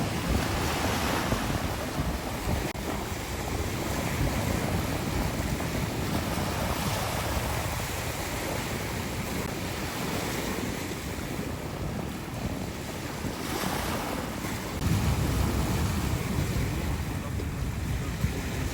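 Wind buffeting the microphone over the steady rush of surf from a rough sea; the low buffeting grows heavier near the end.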